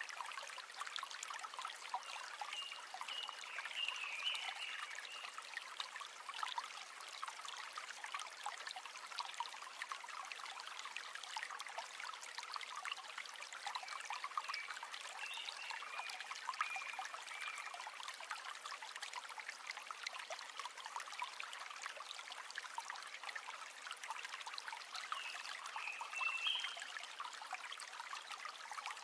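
River water flowing, a steady trickling babble with no low rumble.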